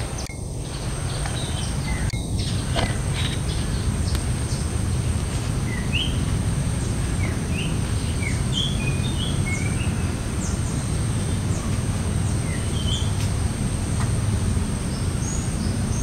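Common iora (Aegithina tiphia) giving a string of short chirping notes, mostly in the middle stretch, over a steady high-pitched insect drone and a low rumble of background noise.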